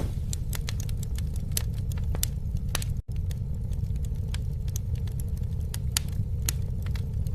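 Campfire burning, with a steady low rumble and irregular sharp crackles and pops. The sound cuts out for an instant about three seconds in.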